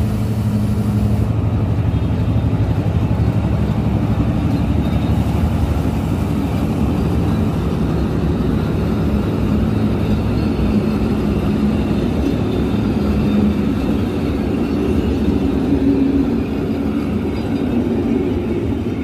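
Passenger coaches of a train passing close by at a station platform: a steady, loud rumble and clatter of wheels on the rails.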